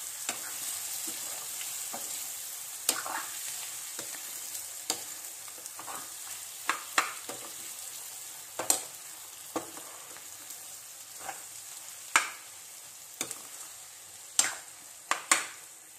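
Chopped boiled eggs and masala sizzling in a nonstick frying pan while being stirred. A spatula scrapes and knocks against the pan about ten times, at uneven intervals. The sizzle slowly dies down.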